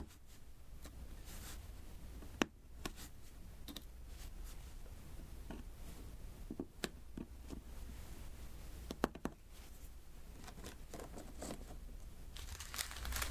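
Diamond-painting pen tapping resin drills onto the sticky canvas in scattered small clicks, with a sharper click about two and a half seconds in and another cluster around nine seconds. A rustle starts building near the end.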